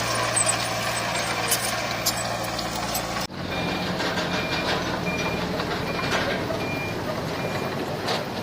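Heavy earthmoving machinery running, with scattered clanks. After an abrupt cut a little over three seconds in, a reversing alarm beeps six times, about 0.7 s apart, over an engine rumble.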